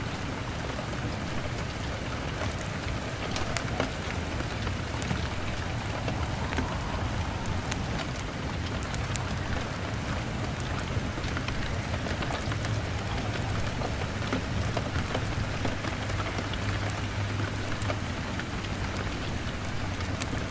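Heavy rain drumming steadily on a window, with the scattered crackles of a log fire and a low rumble underneath.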